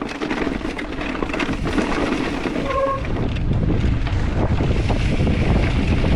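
Wind rushing over the microphone with the rolling noise of a mountain bike on a dirt trail, the low rumble growing louder about halfway through. A brief squeak about three seconds in.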